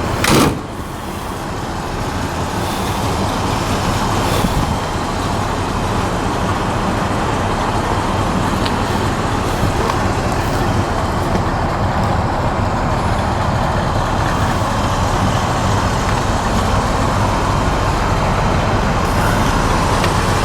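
1966 Chevrolet C-10 pickup's 350 V8 driving along, a steady mix of engine hum and road noise that builds over the first few seconds and then holds. A short loud knock or bump comes just after the start.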